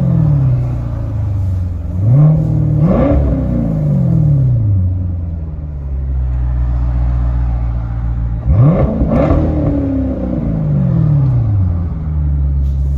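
2014 Corvette's 6.2-litre LT1 V8 with a rear muffler delete (straight 3-inch pipes behind the factory X-pipe and converters, exhaust valves fixed open), heard from inside the cabin, idling and then blipped twice in quick succession about two seconds in and again about eight seconds in, each time falling back to a steady idle.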